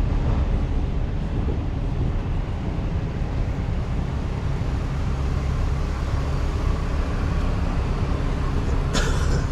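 Vehicle engine running steadily with a low rumble, and a short sharp noise near the end.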